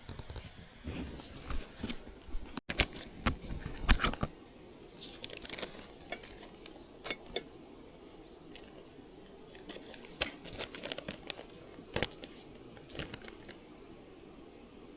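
Irregular clicks, knocks and crinkling of things being handled close by, busiest in the first few seconds, with one sharp click later on.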